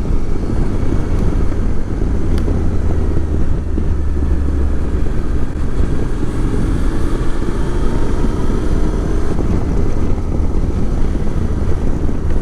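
Motorcycle running under way: a steady low engine and road rumble with wind noise on the microphone.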